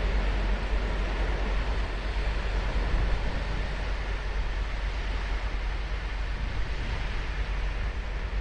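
Ocean waves washing onto a sandy beach in a steady surf noise, with a heavy low rumble of wind on the microphone.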